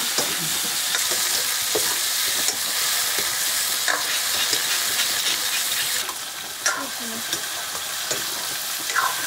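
Food sizzling as it fries in a cooking pan while it is stirred, with occasional scrapes and knocks of the spoon against the pan. The sizzle eases slightly about six seconds in.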